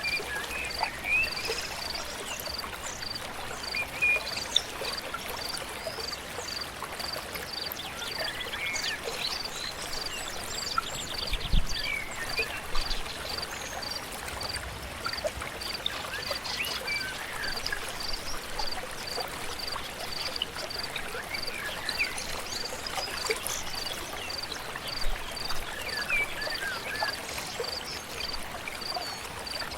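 A river flowing steadily, with birds singing and chirping over it. A short high note repeats evenly throughout, about three every two seconds.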